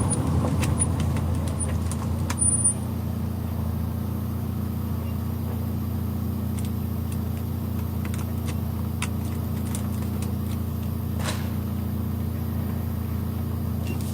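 Car running along a street: a steady low engine and road drone, with a few faint ticks.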